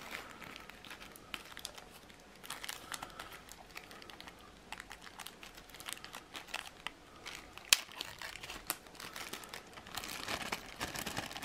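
Small plastic bags of replacement rubber drive belts crinkling as they are opened and handled, with scattered light clicks and one sharp click about three-quarters of the way through.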